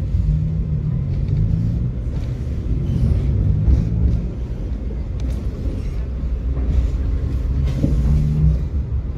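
Tram running along its route: a steady low rumble of wheels on rail and traction motors, with humming tones that shift up and down in pitch and a few light knocks.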